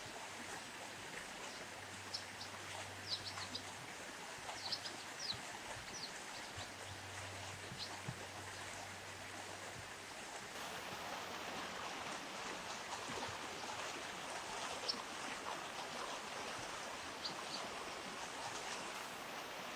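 River water running steadily over stones, with short high bird chirps scattered over it: a cluster in the first half, a few more later.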